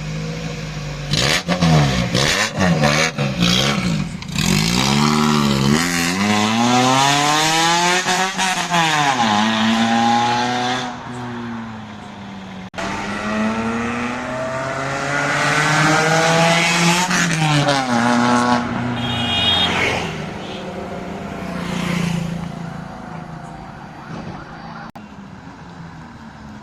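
Maruti Gypsy engine through a loud custom valvetronic performance exhaust: a few quick throttle blips, then several long revs that climb high and fall back, and it settles to idle near the end.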